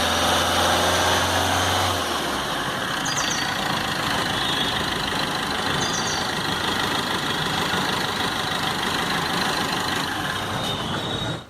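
Maruti Suzuki Vitara Brezza's 1.3-litre diesel engine idling steadily; its low hum drops away about two seconds in while the engine noise carries on. The sound cuts off abruptly at the end.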